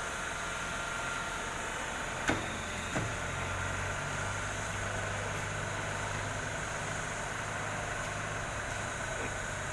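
Tyre-changing machine humming steadily, with two sharp clicks a little over two and three seconds in, after which a low motor hum grows stronger.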